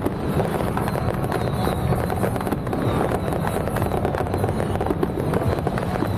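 Strings of firecrackers crackling continuously, dense irregular pops over a steady low rumble.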